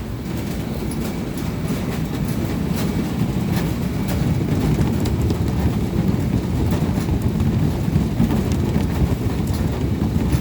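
Steady low rumble of the potato unloading equipment, the tipped trailer and conveyor running, with scattered light knocks.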